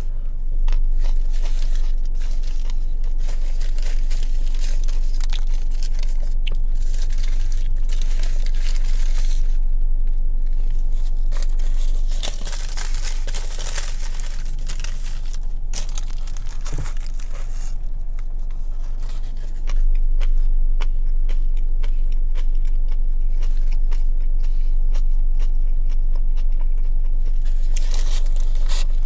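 Paper sandwich wrapper crinkling and tearing as a meatball sub is handled, with close-up bites and chewing in the later part, over a steady low hum.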